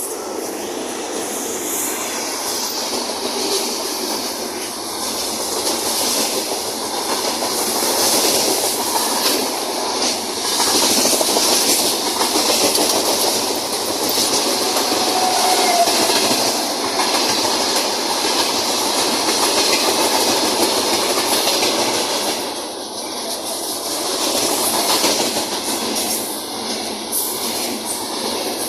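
Freight train hauled by a VL11 electric locomotive passing close by: steady rolling noise of the wagons, wheels clattering over the rail joints, with a brief squeal about halfway through.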